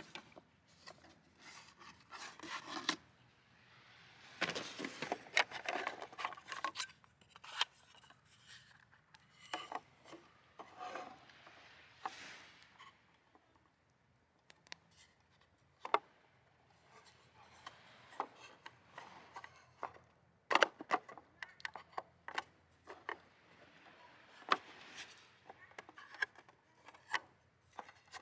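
Close handling noises: irregular rubbing and scraping with scattered sharp clicks and taps, the loudest clicks about 16 and 20 seconds in.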